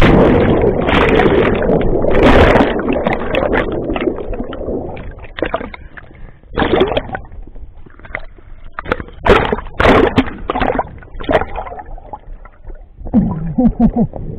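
Lake water churning close to the microphone after a jump into the water, a loud rush that dies away over about five seconds. Scattered splashes and sloshing follow, with a short shout near the end.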